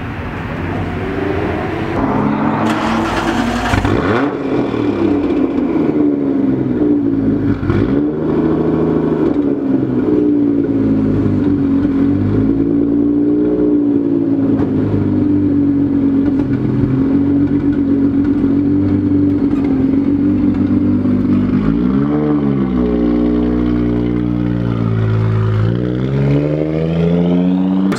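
Nissan Skyline R34 GT-R's twin-turbo straight-six running at a steady idle with small wavers in the revs. Near the end the note dips and then rises as the car pulls away.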